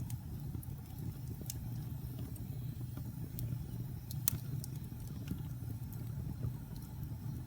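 Wood fire burning in a fireplace: a steady low rumble with scattered sharp crackles and pops, the loudest about four seconds in.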